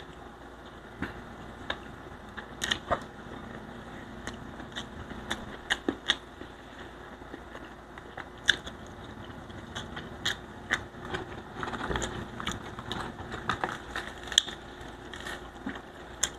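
Close-up eating sounds of a person eating fried tilapia and pinakbet with the hands: chewing and lip smacking with many irregular sharp clicks and crunches, busier in the second half.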